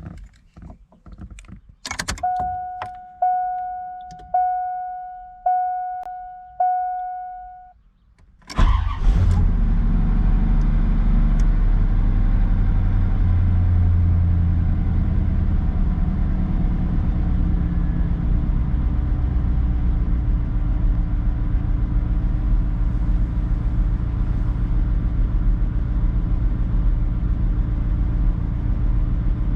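A few clicks, then a dashboard warning chime ringing five times about a second apart. After that the 1992 Corvette's LT1 5.7-litre V8 cranks briefly, catches about eight seconds in, and settles into a steady cold-start idle.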